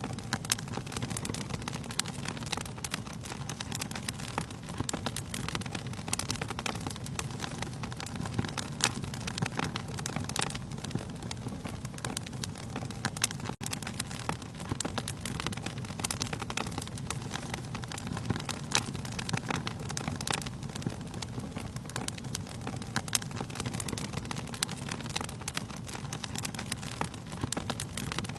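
Wood fire burning in a fireplace: a steady low rumble of flames with frequent irregular sharp crackles and pops of the burning logs.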